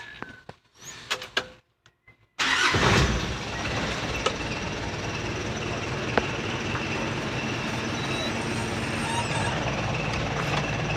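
Mitsubishi Canter's 4D32 four-cylinder diesel engine starts abruptly about two seconds in and settles into a steady idle. The clutch booster, a freshly replaced hydrovac, is being tested and makes no whirring or clicking of its own.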